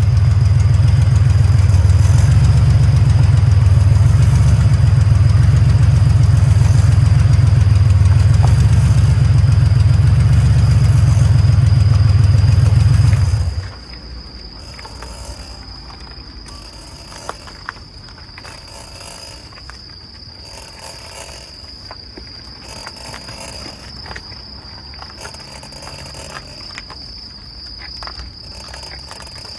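Loud, steady low drone with a fast even pulse from a Porsche 964, the noise presented as a failing wheel hub bearing. It stops abruptly about 13 seconds in. After that crickets chirp in one steady high tone, with a few light clicks.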